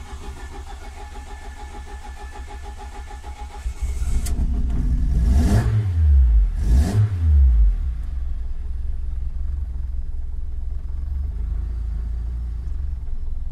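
Ford Focus ST170's four-cylinder engine on individual throttle bodies cranking on the starter for about four seconds before it fires, revving up and down twice and then settling into a steady idle. A hard start: it only wants to fire once the throttle is opened into the richer cranking-fuel cells.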